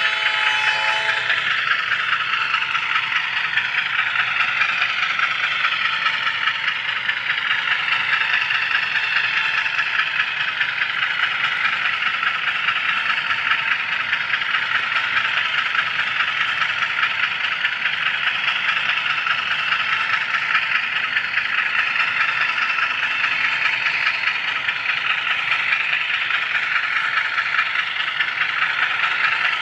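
HO scale model train rolling along the track, heard from the camera car riding on it: a steady, close rattle of small wheels and running gear. A chord of several steady tones, like a model locomotive's horn, stops about a second in.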